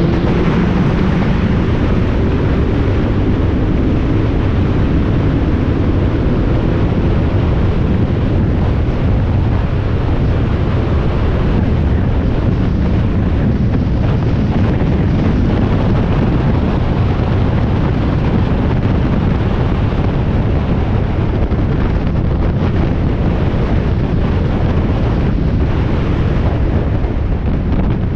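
Spec Miata race car at speed, heard from the onboard camera: loud, steady wind rush on the microphone, with the engine note mostly buried beneath it.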